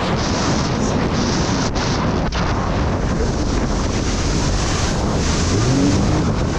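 Wind buffeting the microphone and water rushing past while riding a jet ski, with the engine running underneath.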